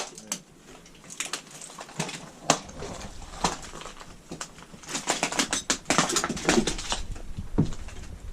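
Footsteps crunching over a debris-strewn floor: irregular sharp crackles and clicks, densest about five to seven seconds in.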